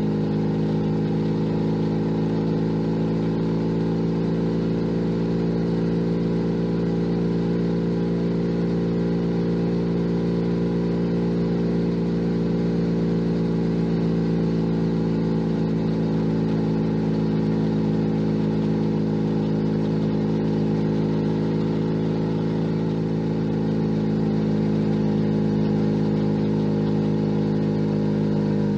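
Junak M11 Cafe's 125 cc single-cylinder four-stroke engine running under way at a steady speed, its pitch holding nearly level throughout.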